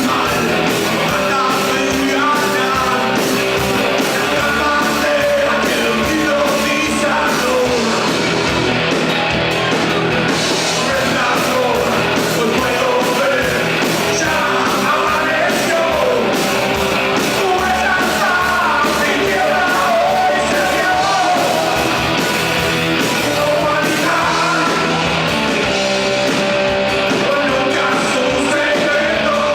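Rock song playing, a singer's voice over a full band.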